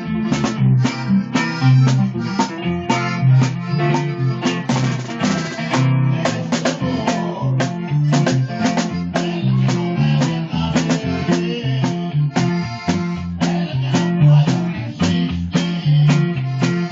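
Norteño group music: an instrumental passage with plucked strings over a drum kit keeping a steady beat.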